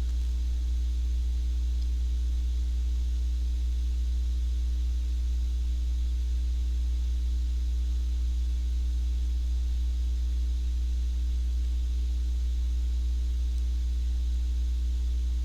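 Steady low hum with a faint even hiss, unchanging throughout; no other sound stands out.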